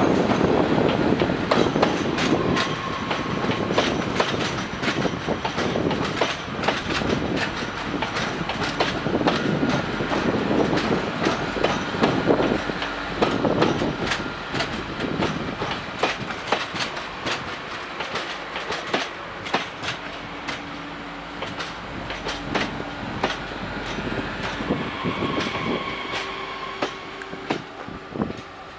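Bombardier AGC regional multiple unit rolling slowly past, its wheels clicking over rail joints and points with a steady rumble. The sound fades gradually as it draws away, and a thin high squeal comes in near the end.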